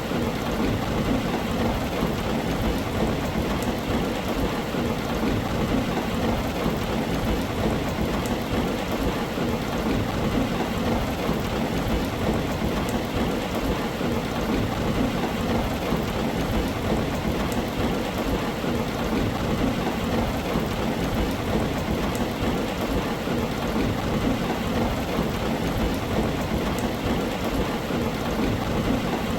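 Steady, heavy rain falling on a tin roof, with an even low rumble beneath it and no separate thunderclaps.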